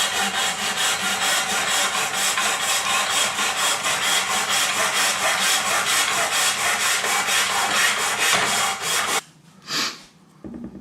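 Hand saw cutting plaster moulding in quick, even back-and-forth strokes, about five a second. It stops abruptly near the end, followed by one short scrape.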